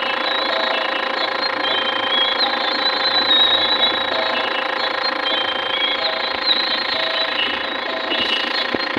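Toy washing machine's small electric motor running with a steady buzzing whirr, with short high beeping notes recurring over it.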